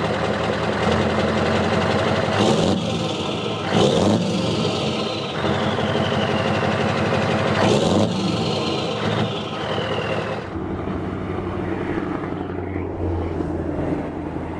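Scania DC16 16-litre V8 turbo diesel running, revved twice about four seconds apart, each blip followed by a high whistle falling in pitch. After that it runs on steadily.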